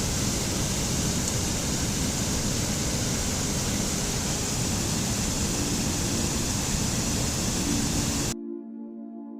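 A loud, steady rushing noise over soft ambient music. It cuts off suddenly near the end, leaving only the music.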